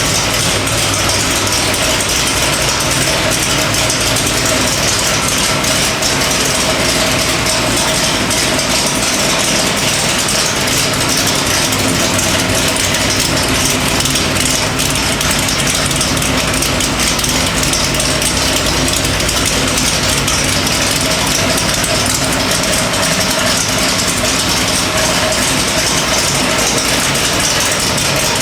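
Chevrolet small-block 427 cubic-inch stroker V8 with AFR cylinder heads running on an engine dyno at a steady speed, loud and even, with no rev-up or pull.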